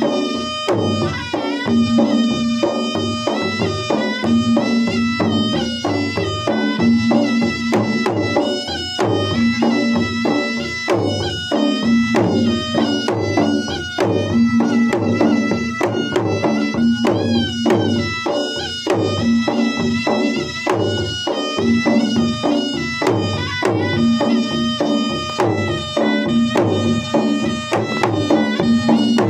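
Traditional Makassar gendang wedding drums from Maros beating a fast, continuous rhythm, with a held, pitched melody line above them.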